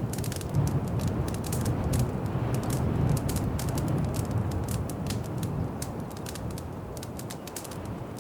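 Wood fire crackling in a fireplace: many sharp, irregular pops and snaps over a low, steady rumble of burning flames.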